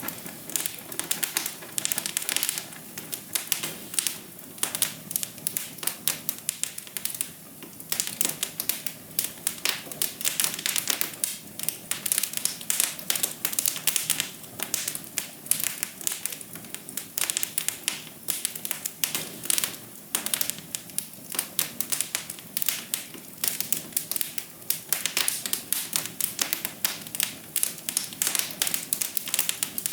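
Wood fire crackling in a fireplace: dense, irregular pops and snaps over a soft hiss.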